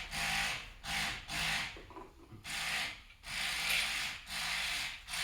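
Hand ratchet being cranked back and forth to run in small engine bolts, each stroke a short rasping run of clicks, about seven strokes at an uneven pace.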